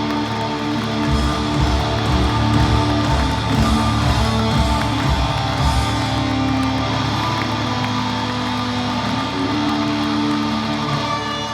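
Hard rock band playing live with electric guitars and bass, the low end pulsing heavily for the first several seconds.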